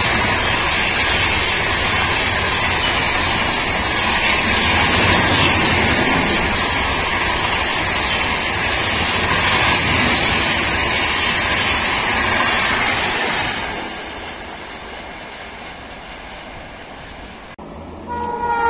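Passenger train coaches passing at speed, a loud steady rush of wheels on rail. It dies away about 14 seconds in as the end of the train goes by. Just before the end it cuts abruptly to the low rumble of another train approaching.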